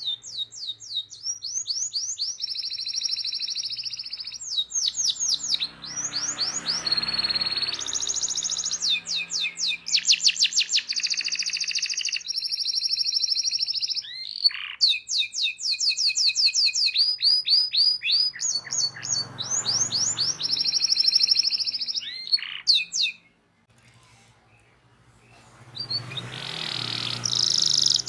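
Domestic canary singing a long song of rapid rolling trills and fast repeated sweeping notes. It breaks off about 23 seconds in, then starts again about two seconds later.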